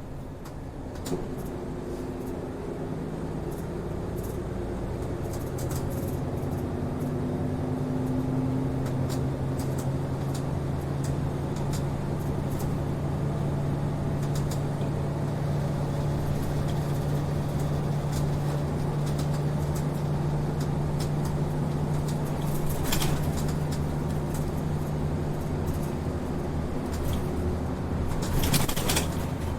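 City bus running on the road, heard from inside the cabin. The engine drone grows louder and shifts pitch as the bus picks up speed, then holds steady, with scattered rattles and clicks from the body. Two short hisses come about three-quarters of the way in and again near the end.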